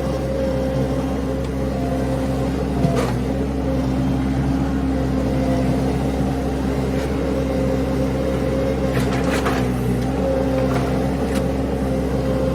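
Mini skid steer's engine running at a steady speed, with a few short metallic knocks: one about three seconds in, a cluster about nine seconds in, and another near the end.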